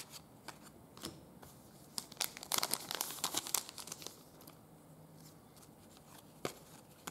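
Trading cards handled with a few light clicks, and a card-pack wrapper crinkling and rustling for about two seconds in the middle.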